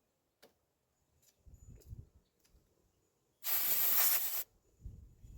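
A sharp burst of hiss lasting about a second, beginning about three and a half seconds in. Low, muffled rumbles come before and after it.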